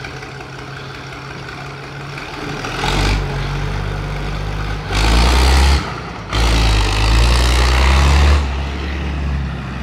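Tractor engine running under load as it tows a compressor and drilling rig, with a steady low hum. It grows louder in swells about three seconds in and from five to eight seconds, with a short dip between.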